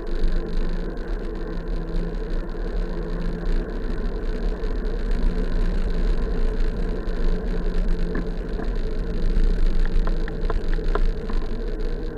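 Road-riding noise: wind rumbling on the microphone over a steady engine drone held at an even pitch, with a few light ticks or rattles about eight to eleven seconds in.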